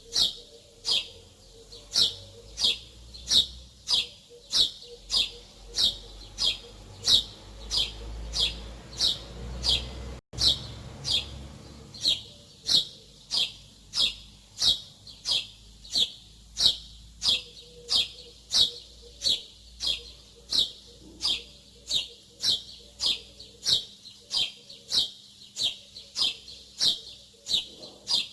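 A small bird chirping over and over in an even rhythm, about three short high chirps every two seconds, with a faint low rumble under it for a stretch in the middle.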